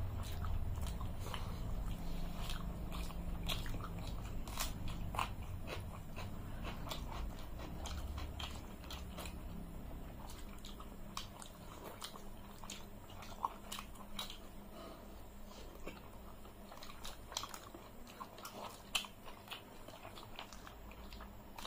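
Close-up chewing and crunching of food by people eating, with many short sharp crunches and clicks scattered through.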